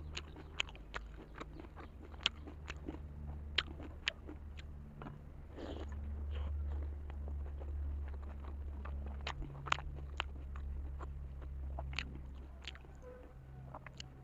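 Close-up chewing and biting of a large steamed vegetable momo dumpling, with irregular sharp wet mouth clicks over a steady low hum.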